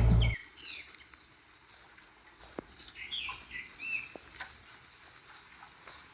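Small birds chirping in short falling notes, over a high tick that repeats about twice a second. A loud low hum cuts off abruptly in the first half second.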